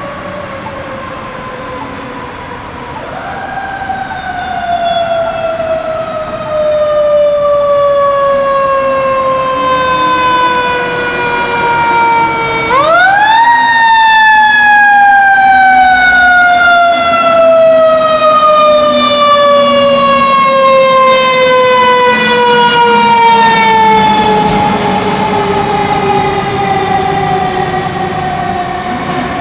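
Fire engine siren, a 2010 Spartan Gladiator/Smeal pumper's, winding up sharply twice, about three seconds in and again near the middle. Each time it slides slowly down in pitch over many seconds. It grows louder as the truck comes closer, with a low engine tone underneath.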